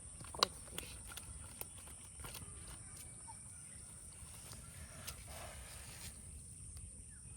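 Faint outdoor background with a low, even rumble and a steady high thin hiss, broken by a handful of sharp taps, the loudest about half a second in.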